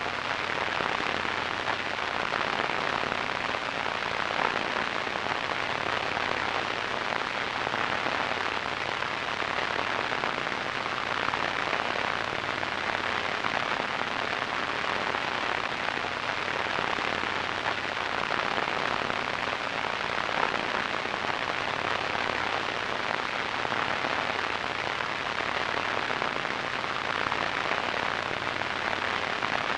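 Steady radio static: an even hiss with fine crackle, strongest in the middle frequencies, unchanging throughout.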